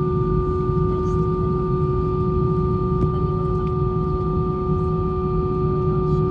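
Steady drone inside an Airbus A320 cabin: a low rumble with two steady whining tones on top, one low and one higher.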